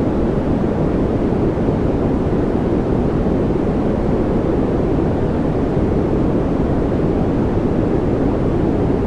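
Steady white-noise track: an unbroken, even rush of noise, deep and muffled rather than hissy, with no rhythm, pauses or changes.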